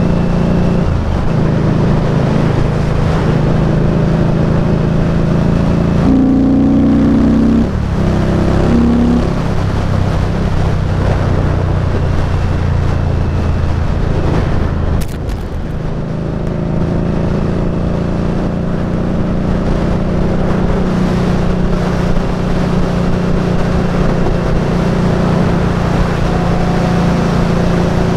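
Indian Scout Bobber's V-twin engine running steadily while riding. The engine pitch changes a few times about six to nine seconds in, and the sound drops briefly about fifteen seconds in before picking up again.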